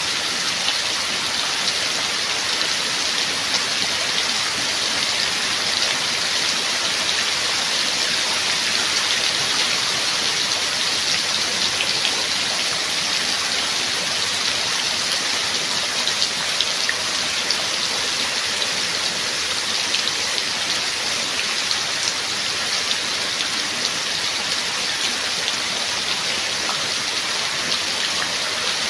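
Steady heavy rain falling, an even hiss with many fine drop ticks.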